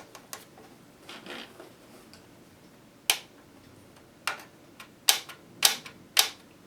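Sharp, irregular clicks of a screwdriver working at a stripped screw in a boombox's plastic cabinet. A few faint clicks come first, then five or six sharp ones bunch up in the last few seconds as the screw refuses to come out.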